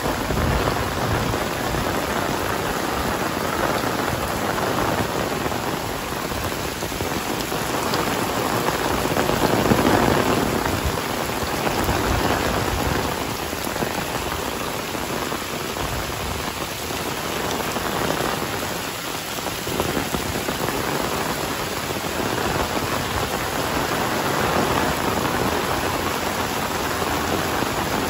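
Heavy rain falling steadily as a dense hiss of drops, swelling louder about a third of the way in before easing back.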